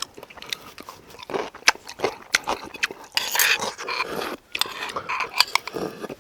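Close-miked eating sounds of seonji haejangguk with soup-soaked rice: chewing and slurping, with many short wet clicks and smacks.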